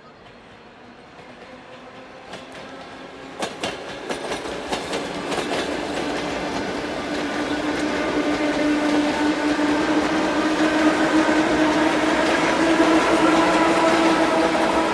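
A train approaching and growing steadily louder, its wheels clicking over rail joints a few seconds in, then a steady hum building up under the rumble of the wheels.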